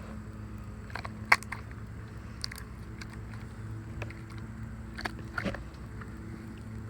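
Hands squishing and stretching a large slime, with a few sharp pops and clicks, the loudest about a second in.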